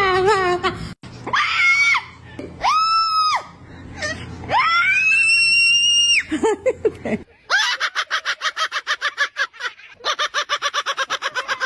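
A parrot calling loudly: a wavering warble cut off about a second in, then two short high whistled calls and one longer held call. From about seven seconds comes a rapid pulsing chatter of about ten pulses a second, in two runs with a brief break between.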